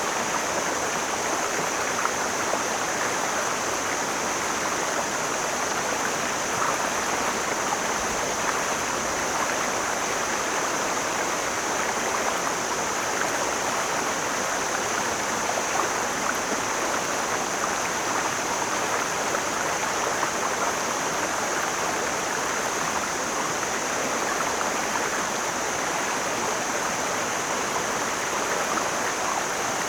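Mountain stream flowing and splashing over rocks, a steady rushing of water with a continuous high hiss above it.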